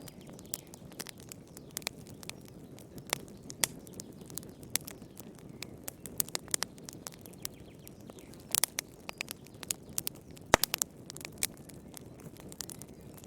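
Wood fire in a fireplace crackling: irregular snaps and pops over a low steady hiss, with one louder pop about ten and a half seconds in.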